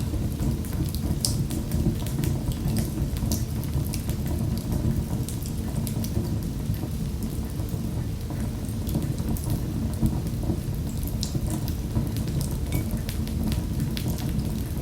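Fire crackling in a fireplace: frequent sharp snaps and pops over a steady low rumble of the flames.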